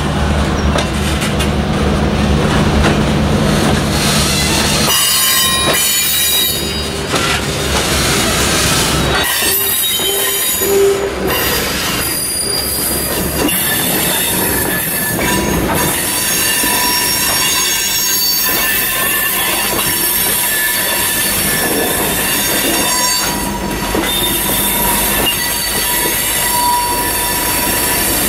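Freight train of tank cars rolling past, their steel wheels squealing against the rails in high, steady tones from about five seconds in over the rumble of the cars. A diesel locomotive's low engine drone is heard at the start.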